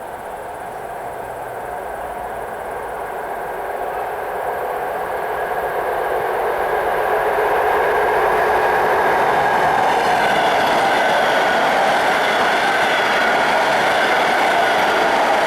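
EP20 electric locomotive and its double-deck passenger train running along the track. The rumble of wheels on rail grows louder over the first half as it approaches, then holds steady and loud.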